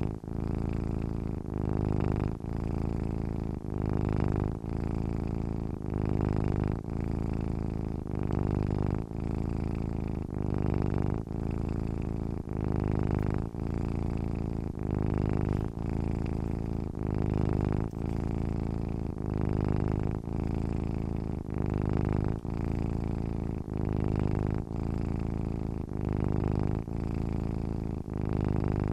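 A sleeping domestic cat purring steadily, a low buzzing purr that swells and dips in an even rhythm about once a second.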